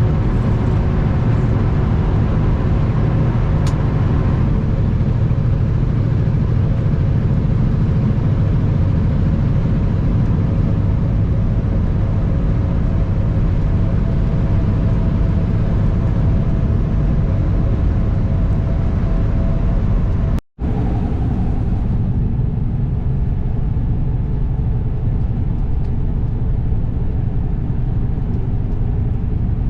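2021 Kenworth W900 semi truck running down the road: steady diesel engine drone and road noise, broken by a momentary dropout to silence about two-thirds of the way through.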